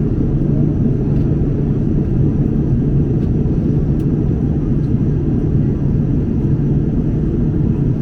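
Steady low rumble of an Airbus A330-200 in flight, its engines and rushing air heard from inside the passenger cabin.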